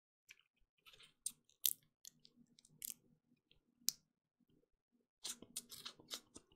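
Sunflower seeds cracked between the teeth and chewed close to a microphone: sharp, irregular cracks and crunches, scattered at first and coming thick and fast over the last second or so.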